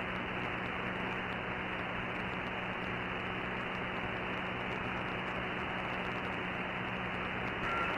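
Radio receiver static: the steady hiss of an open CB channel with no station coming through, with a faint steady low hum under it.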